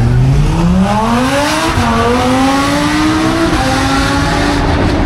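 A car engine accelerating hard. Its pitch climbs, dips slightly at a gear change and climbs again, then drops about three and a half seconds in and holds steadier.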